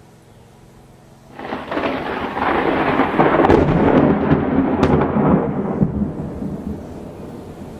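A peal of thunder: it breaks suddenly about a second in, rumbles loudly with a few sharp crackles, and dies away over the last couple of seconds.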